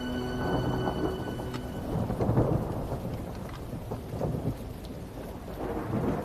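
Thunder rumbling over rain, with the loudest roll about two and a half seconds in; held music notes fade out at the start.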